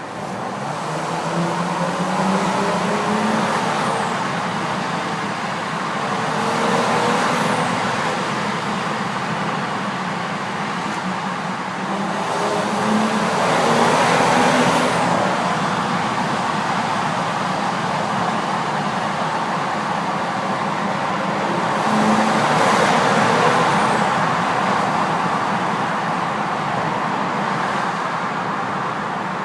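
2012 BMW X5's turbocharged engine pulling hard through a tunnel three times, its pitch rising with each pull, with a faint high turbo whistle climbing over the engine and road noise.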